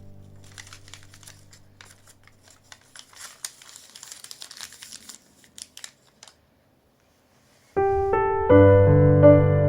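Origami paper being handled, crinkling and crackling in short irregular bursts under soft background music that fades out; after a brief silence, piano music starts abruptly about eight seconds in and is the loudest sound.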